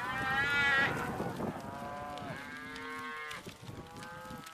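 A herd of range cattle being driven, several animals mooing one after another in long drawn-out calls that overlap, about five calls in all, with the loudest in the first second.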